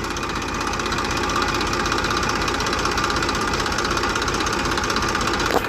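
Small engine of a homemade mini tractor running steadily at a fast, even beat. It cuts off abruptly near the end.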